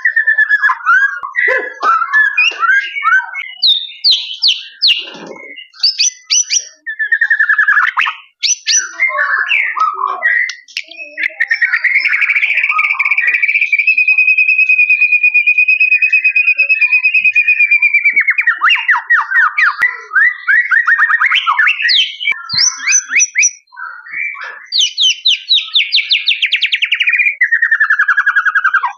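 White-rumped shama (murai batu) singing a loud, varied song of whistled phrases and fast trills, with a long, even rattling trill held for several seconds near the middle and quick falling trills toward the end.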